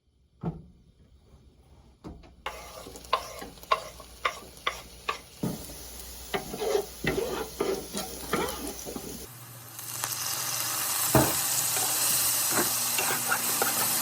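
Kitchen cooking sounds: a run of sharp utensil clicks and clatter, then a steady hiss from about nine seconds in that cuts off near the end.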